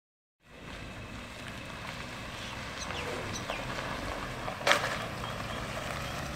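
Engines of a Toyota Land Cruiser SUV and a pickup running as they roll slowly forward, a steady low rumble. A few short bird chirps come around three seconds in, and a single sharp knock comes just under five seconds in, the loudest sound.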